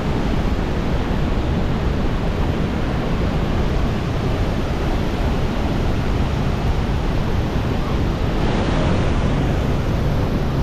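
Steady roar of the Niagara Falls waterfall plunging nearby, a continuous loud rush of water with a touch of wind on the microphone.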